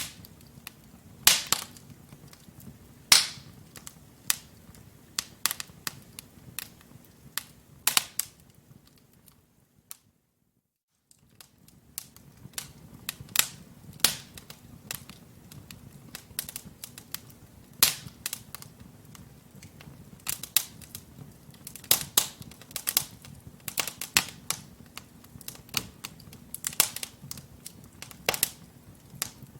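Wood logs burning in a fireplace, crackling with irregular sharp pops and snaps, several a second at times, over a faint steady hiss. The sound cuts out completely for about a second near the middle, then the crackling resumes.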